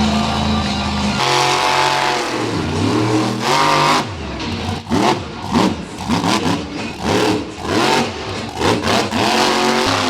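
Monster truck engine revving hard, its pitch climbing and dropping again and again in quick throttle bursts, about one to two a second in the second half.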